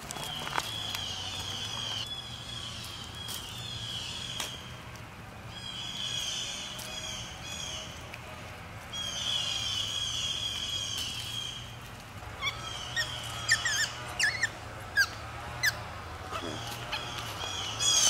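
Birds calling in the woods: a high call phrase repeated every second or two, then a run of short, sharp chirps over the last few seconds.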